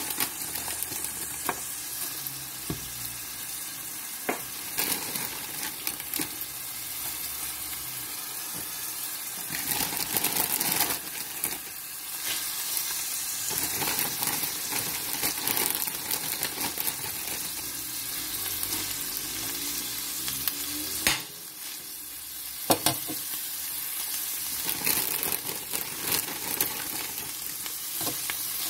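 Kale and onions frying in olive oil in a stainless steel skillet: a steady sizzle with frequent crackling pops, a few of them louder.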